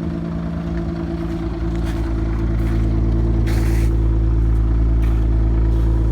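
Car engine idling steadily, growing slightly louder a couple of seconds in, with a short hiss about halfway through.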